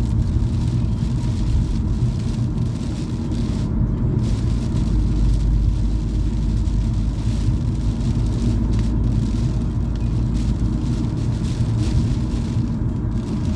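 Car cabin noise while driving at steady speed: a continuous low rumble of engine and tyres on the road.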